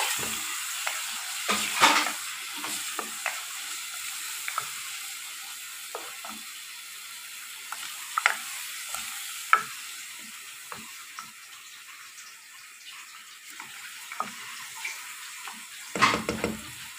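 Chicken in onion-garlic paste sizzling in a metal pan on a gas stove while being stirred, with short scrapes and knocks of the spoon against the pan. The sizzle slowly dies down, and a louder clatter comes near the end.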